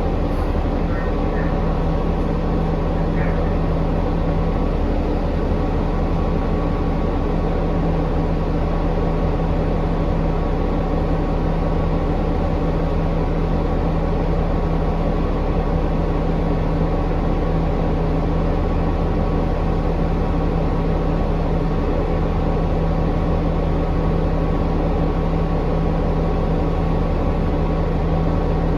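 Inside a 2019 New Flyer XD40 diesel transit bus: the drivetrain runs with a loud, even drone and steady whining tones over it. This is the unusual noise that the uploader says makes this bus sound insane.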